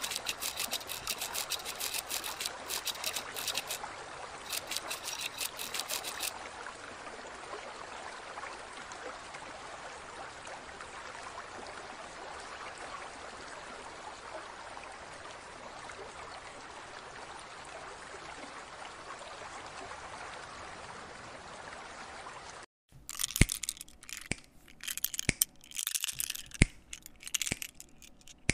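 Steady running-water noise, with rapid clicking over it for the first six seconds. It cuts off suddenly about 23 seconds in, followed by scattered sharp clicks.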